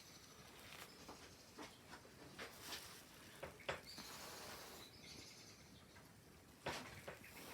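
Near silence: faint room tone with a few small clicks and taps scattered through it, the sharpest about two-thirds of the way in.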